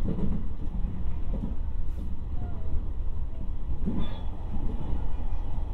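Running sound of an electric commuter train heard from inside a passenger car: a steady low rumble from the wheels and running gear, with a light knock about four seconds in.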